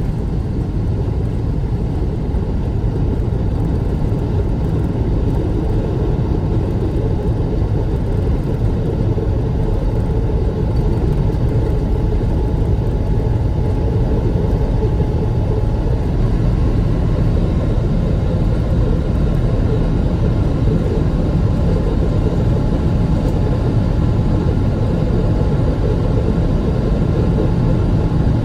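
Jet airliner's engines and a low rumble, steady, with a few faint whining tones, growing a little louder partway through.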